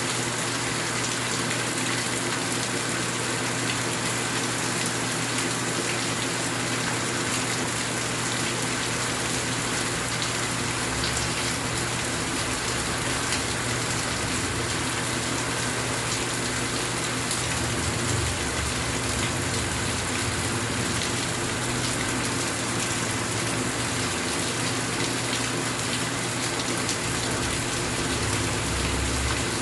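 Steady rain falling and pattering on surfaces, an even wash of noise with no change in intensity.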